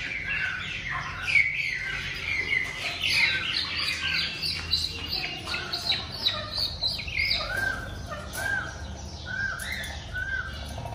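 Several caged birds chirping and calling: a busy run of quick high chirps, then from about seven seconds in a slower series of repeated calls, roughly two a second.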